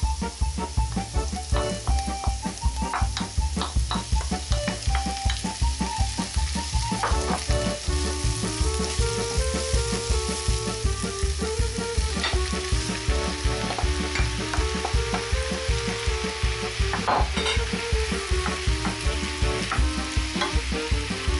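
Onion and mushrooms sizzling in hot oil in a frying pan, stirred and scraped with a wooden spoon, with one louder crackle about three-quarters of the way through. Background music with a steady beat and a melody plays underneath.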